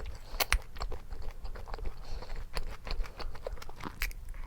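Close-up sounds of a person chewing and biting food: a run of small wet clicks and crackles, with a sharper click about half a second in.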